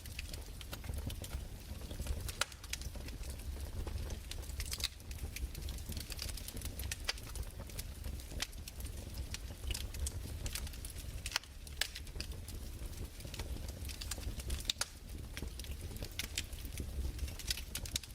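Wood fire crackling: irregular snaps and pops over a low steady rumble.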